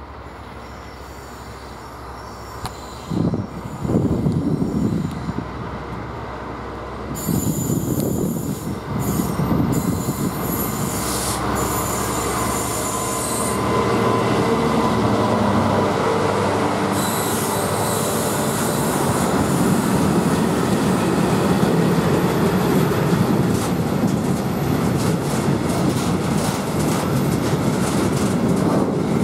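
A DB Schenker Class 66 diesel freight locomotive (66017), with a two-stroke V12 EMD engine, approaches and passes close by; its sound rises sharply about seven seconds in. It is followed by the steady rolling rumble and wheel noise of a long train of loaded steel-coil wagons, with rapid clicks of wheels over rail joints near the end.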